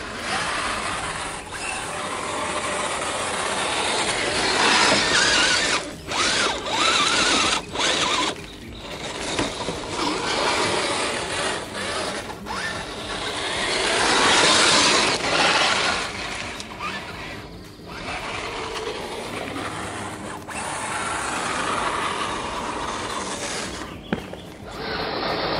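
Redcat Gen8 Scout II RC crawler driving, its electric motor and metal-geared drivetrain whining and grinding as the throttle is worked on and off, with several brief drops where the throttle is let off.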